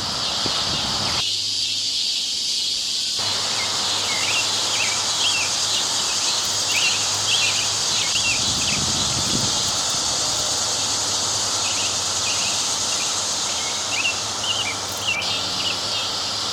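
Dense chorus of Brood X 17-year periodical cicadas, a steady high-pitched drone with no let-up. Short bird chirps sound over it in the middle and latter part.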